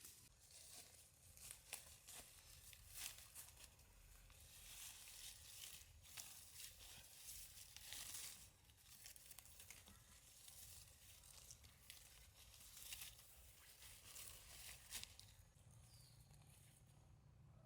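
Faint, irregular rustling and crackling, as of material being handled or torn, with a few faint bird chirps near the end.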